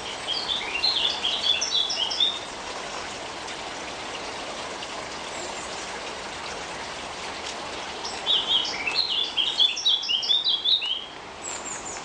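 A songbird singing two quick runs of high chirping notes, the first at the start and the second about eight seconds in, over a steady background hiss.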